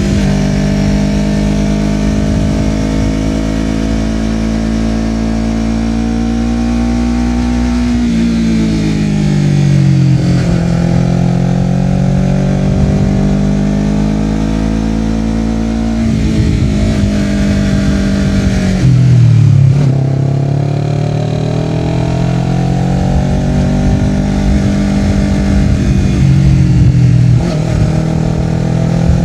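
Honda CBR250RR parallel-twin engine through a Yoshimura R-11 slip-on exhaust, heard from on board while riding. It holds a steady engine speed, then about eight seconds in the pitch drops as the throttle closes and climbs again under acceleration, and this easing off and pulling away repeats a few more times.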